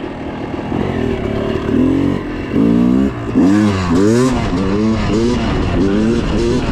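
Yamaha YZ250 two-stroke dirt bike engine being ridden on the throttle, steady at first, then revving up and down in quick surges from about two and a half seconds in.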